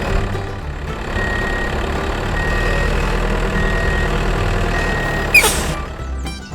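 A vehicle engine running steadily while a reversing alarm beeps four times, evenly spaced about a second apart. Just after the last beep comes a short, loud, high-pitched sweep.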